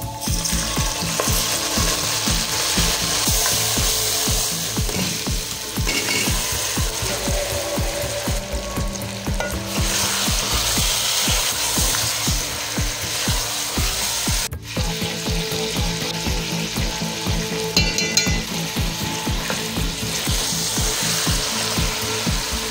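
Fried onions and whole spices sizzling in hot oil in an aluminium pot, the sizzle flaring as water and then raw chicken pieces go in, with a spatula stirring and scraping against the pot. The sizzle breaks off briefly about halfway through.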